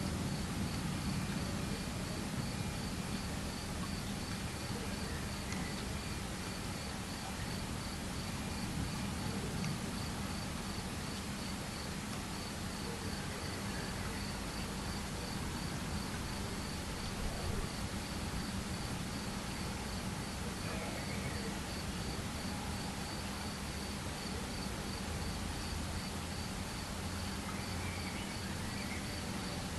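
A cricket chirping steadily in even, regular pulses over a constant background hiss, with the low rumble of distant thunder dying away at the start.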